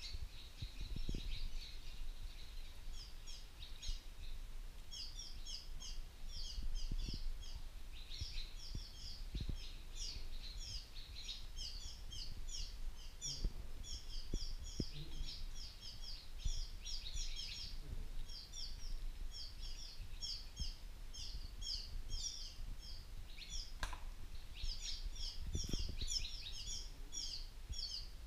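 Birds chirping continuously: many short, quick, high-pitched calls in rapid succession, with a few faint low thumps now and then.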